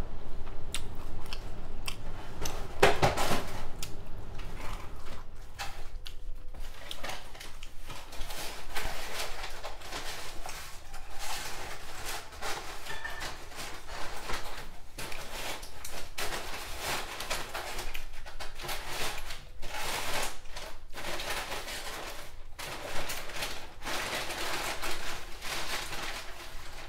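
A person chewing and biting into sushi rolls, with irregular wet crunches and clicks as she eats.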